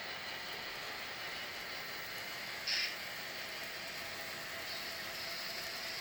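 Steady rolling noise of a passing train, with one short high-pitched sound a little under three seconds in.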